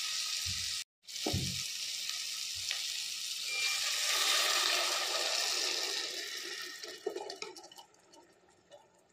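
Onions, tomatoes and curry leaves sizzling in oil in a clay pot, then a thick ground masala paste poured in over them; the sizzle dies away as the paste covers the pan. The sound cuts out briefly about a second in.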